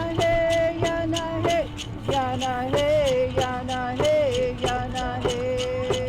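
Voices singing a chant of vocables ('hey, yana'), holding long, wavering notes in two pitches, over a steady struck beat of about three strikes a second.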